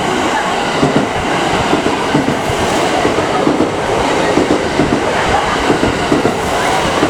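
Train running along the track: loud, steady wheel-on-rail noise.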